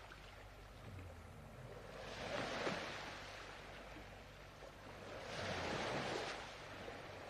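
Faint recorded ocean surf: two waves swell and wash out about three seconds apart over a low steady background.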